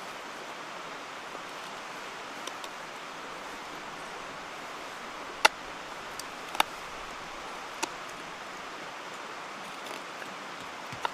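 Steady rush of a mountain stream, with three sharp clicks or snaps in the middle, the first the loudest.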